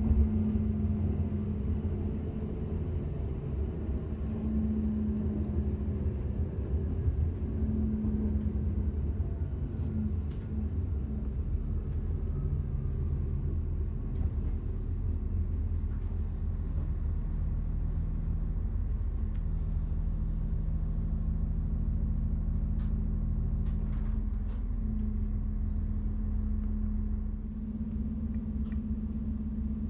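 Diesel railcar heard from inside the carriage while under way: a steady low rumble with an engine hum and a few faint clicks. The rumble eases slightly near the end as the train pulls into a station.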